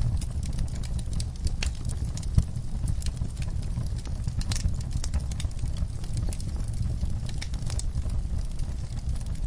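Wood fire crackling in a fireplace: irregular sharp pops and snaps over a steady low rumble of flames, with one louder pop about two and a half seconds in.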